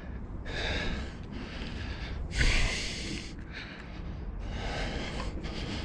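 A person breathing: three breaths, each about a second long, coming about two seconds apart.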